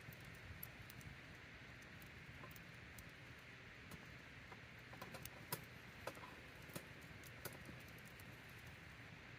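Campfire crackling: sparse sharp pops and snaps of burning wood over a faint steady hiss, the loudest snap about five and a half seconds in.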